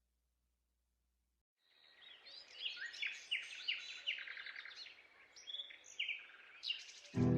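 Songbird singing: a run of quick chirps and short trills, starting after about two seconds of silence.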